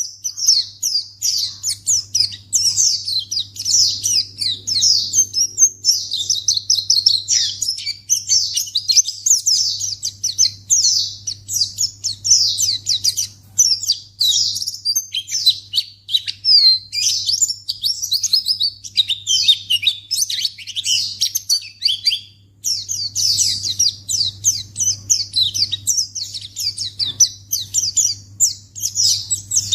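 White-eye (pleci) singing a fast, continuous twittering song of rapid high chirps, with only a brief pause about three-quarters of the way through.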